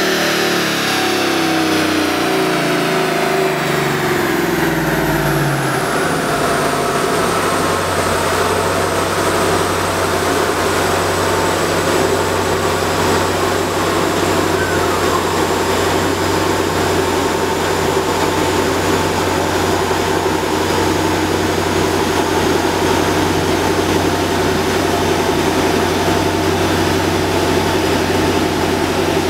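2011 Mustang 5.0's Coyote V8 on a chassis dyno winding down after a pull: its pitch falls steadily over the first six seconds or so. It then settles into a steady idle over an even hiss with a faint high whine.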